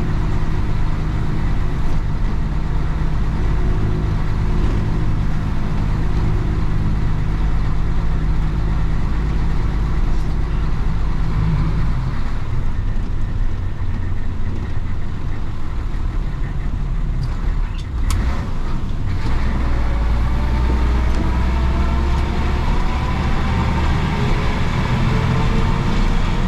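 Diesel engine of a 1966 Isuzu BXD30 bonnet bus (DA640 engine) running under way. The note holds steady at first, breaks briefly about two-thirds of the way through, then climbs steadily in pitch as the bus pulls away.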